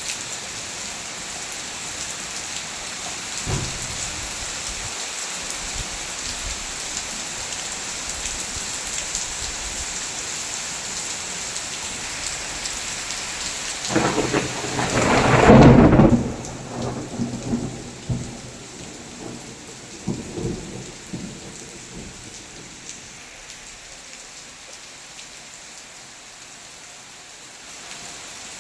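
Steady rain falling in a monsoon downpour. About halfway through, a loud clap of thunder builds and breaks, followed by a few fainter rolling rumbles over the next several seconds. After the thunder the rain sounds lighter.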